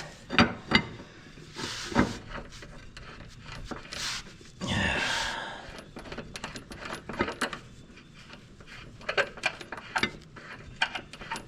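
Metal hand tools and mower parts clinking and knocking in a string of sharp irregular clicks as a mower blade is put back on, with a brief rushing noise about five seconds in.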